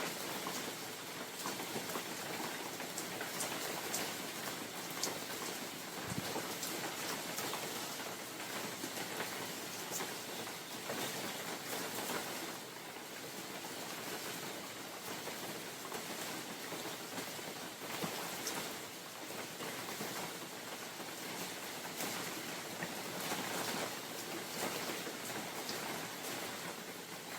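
Steady spring rain falling in a forest, an even hiss with many individual drops ticking through it.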